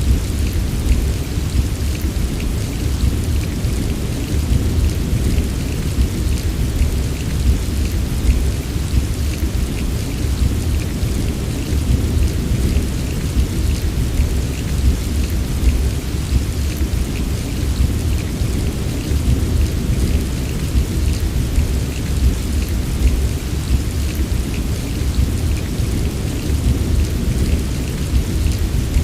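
Steady heavy rain falling without a break, with a constant low rumble underneath and a fainter hiss of drops above.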